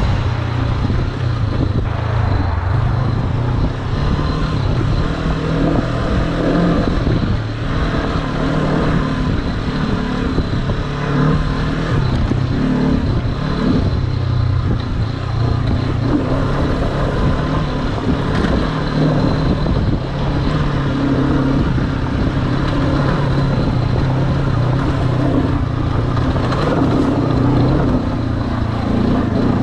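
Honda CB500X's parallel-twin engine running as the motorcycle is ridden, its pitch shifting up and down with the throttle, over a continuous noisy rumble.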